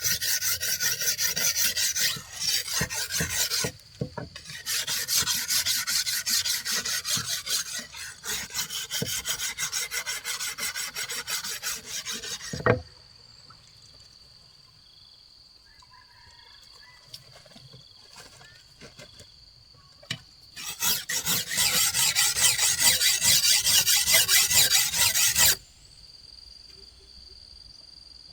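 Fast, rhythmic rasping strokes on wood, like hand sawing or scraping, in two spells. A single sharp knock ends the first spell about thirteen seconds in. A quieter gap with a faint steady high tone follows before the rasping starts again for about five seconds.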